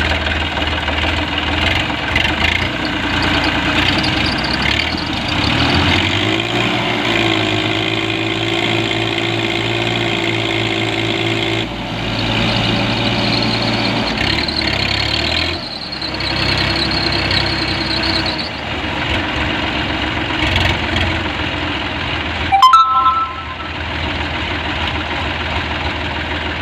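Diesel tractor engines running during a tractor-versus-tractor pull, the pitch rising about six seconds in, holding for several seconds, then falling back and running on steadily. A brief, sharp, loud sound cuts in about 23 seconds in.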